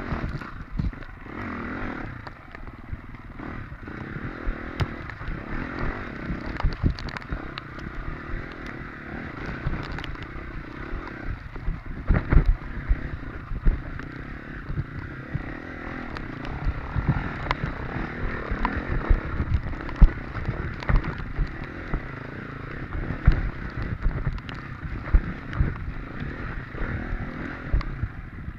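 Off-road dirt bike running over rough, rutted ground, its engine note mixed with frequent sharp knocks and clatter from the bumps.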